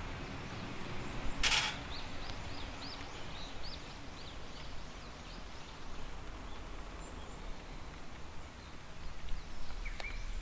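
A bird calling in a quick run of short chirps for a couple of seconds, with a single chirp again near the end, over a steady low outdoor background noise. A brief sharp burst of noise, the loudest thing here, comes about one and a half seconds in.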